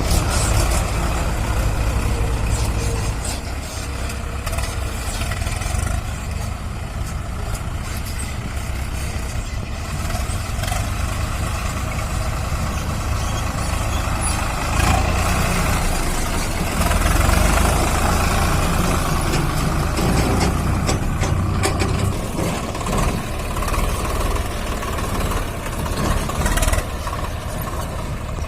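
Swaraj 744 FE tractor's three-cylinder diesel engine running steadily with a deep low rumble.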